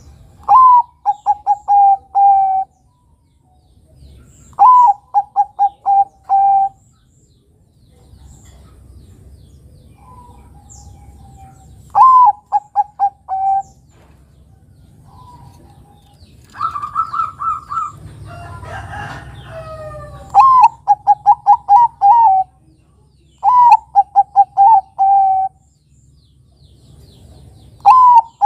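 Zebra dove (Bangkok perkutut) cooing: repeated phrases, each a rising opening note followed by a quick run of short coos, a few seconds apart. A few seconds past the middle comes a higher held call and a brief jumble of other sound.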